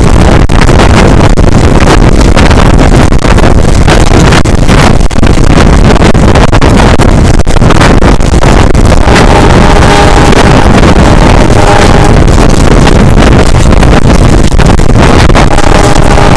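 Passenger train running at speed, its rumble mixed with heavy wind rushing over a microphone mounted outside the carriage window, very loud throughout. A faint steady tone rises above the noise about nine seconds in for a few seconds and again near the end.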